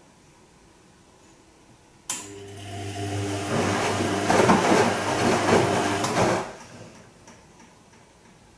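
Bosch Serie 2 Vario Perfect washing machine turning its drum in a short bout on the delicate silk wash. A steady motor hum with water and laundry sloshing starts suddenly about two seconds in, grows louder, and stops a little over four seconds later.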